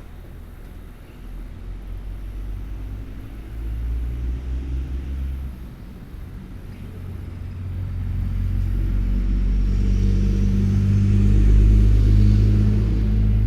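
A motor vehicle's engine rumbling nearby, with a short swell a few seconds in, then building steadily louder to its loudest near the end.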